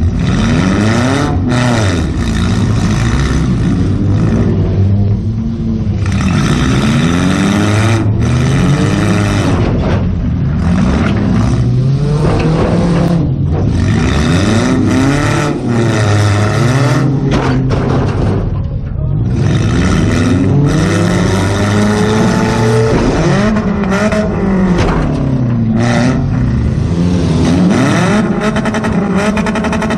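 Demolition derby car's engine revving up and falling back over and over as the car is driven hard, heard from inside the stripped-out cabin.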